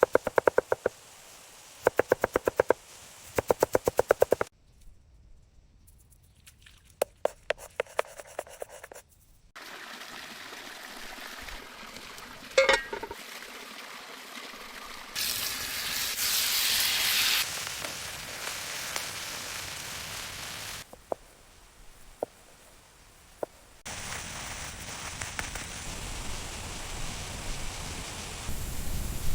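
Campfire cooking sounds in a row of short cuts. Several bursts of rapid clicking strokes come first, then one sharp knock. A couple of seconds of loud hiss follow, then a few single knocks, and a steady hiss near the end.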